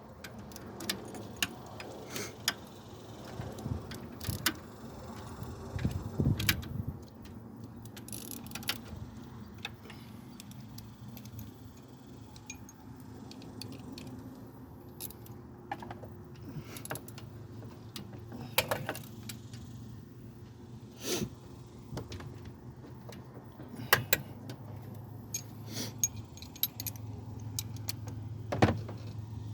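Metal tools and parts clinking and knocking in an irregular series of sharp clicks and clanks while work goes on in an engine bay. A low steady hum runs underneath.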